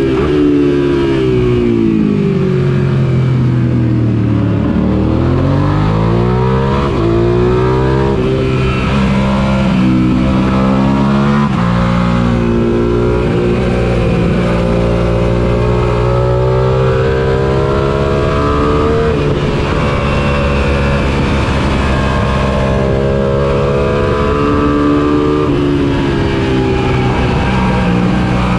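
Suzuki SV650's 645 cc V-twin engine heard onboard at race pace. The revs fall over the first few seconds as the bike brakes and downshifts, then climb again through upshifts about eight and eleven seconds in. They hold high, then dip and rise again twice for further corners.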